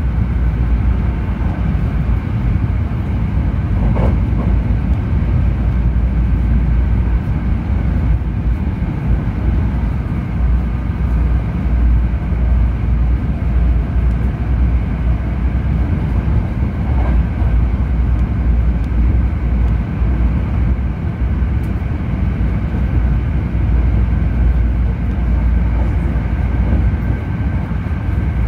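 A Hankyu Railway limited express train running at speed, heard from inside the passenger cabin: a steady low rumble of wheels on rail with a faint steady whine over it.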